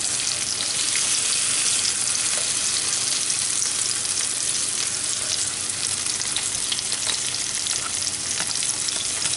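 Salmon fishcakes and cherry tomatoes sizzling in vegetable oil in a frying pan: a steady hiss with constant small crackles and spits. A plastic slotted spatula stirs and turns them in the pan.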